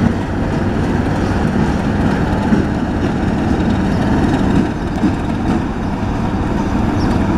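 ChME3 shunting diesel locomotive running with a steady low rumble from its six-cylinder diesel, with a faint click or two near the end.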